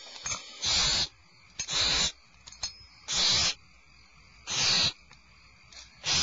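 Barn owl nestlings giving their rasping, hiss-like begging calls: about five separate calls, roughly every second and a half.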